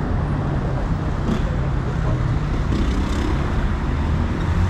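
City road traffic: a steady low rumble of passing vehicles.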